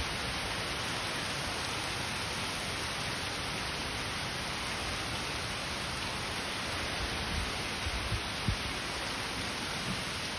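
Thunderstorm rain falling steadily as an even hiss on grass, trees and pavement, with a few brief low thumps about three-quarters of the way through.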